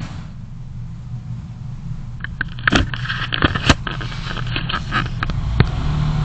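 A car driving, heard by a dashcam: a steady low drone of engine and road. About two seconds in comes a run of irregular knocks and rattles that lasts roughly three and a half seconds.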